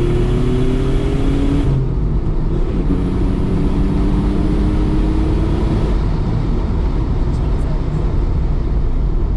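Mitsubishi 3000GT VR4's twin-turbo V6 accelerating, heard from inside the cabin. Its pitch climbs, breaks off about two seconds in, climbs again until about six seconds in, then settles into a steady drone with road noise.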